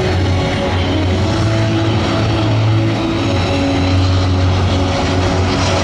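Boeing C-17 Globemaster III's four turbofan jet engines running steadily as the transport jet flies past low, a loud, even jet noise with a deep low hum.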